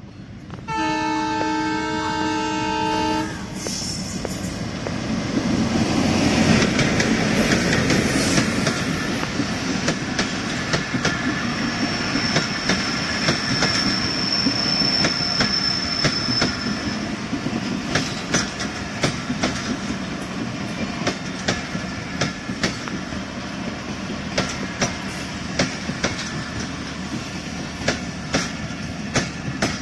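Diesel locomotive sounds a multi-tone horn for about two and a half seconds, starting about a second in, then passes close by with its engine running. Passenger coaches follow, rumbling steadily with regular clicks of wheels over rail joints, and a thin high squeal for a few seconds midway.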